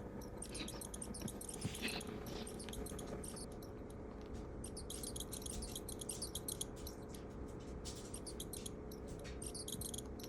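Faint, rapid, irregular crackling and scratchy clicks from a Sphynx kitten attacking a toy, biting and clawing at it, coming in runs with short pauses.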